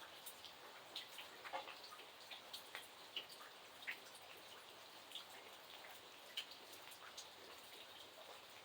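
Faint, steady rain hiss with individual drops ticking irregularly.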